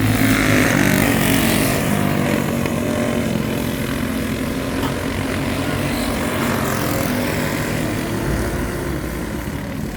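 Several racing motorcycle engines running together as a pack of bikes circles the speedway, a little louder in the first couple of seconds.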